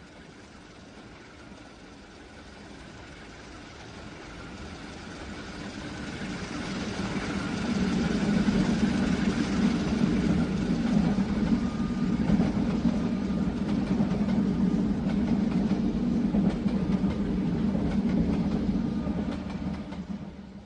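Train passing close by, rail noise and a steady low engine hum. It builds from about four seconds in, stays loud, then drops off sharply near the end.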